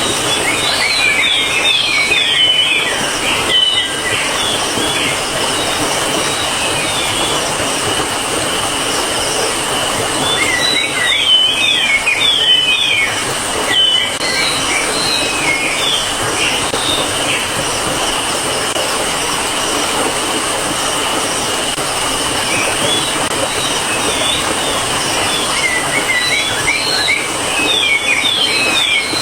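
Small birds twittering in three short bouts of quick rising-and-falling chirps, over a steady high whine and a constant hiss.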